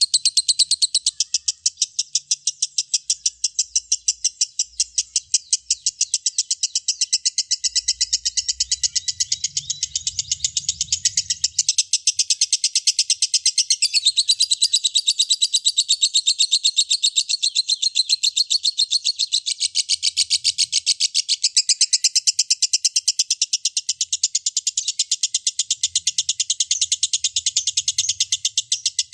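Lovebird singing its long, unbroken 'ngekek' chatter: a fast, steady stream of shrill, high repeated notes with no pauses.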